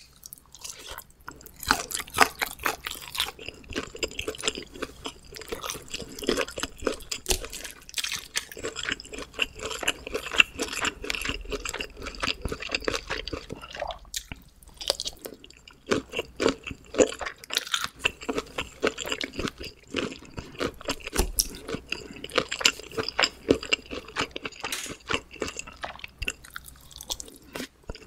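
Close-miked chewing of homemade pizza: a steady run of quick wet mouth clicks and crackles.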